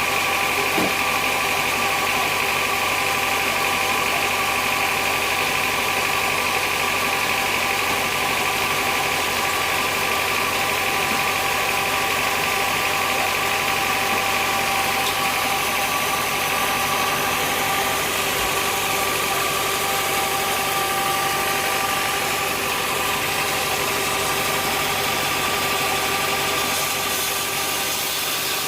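Sawmill saw machinery running steadily: a constant mechanical drone with a steady high whine.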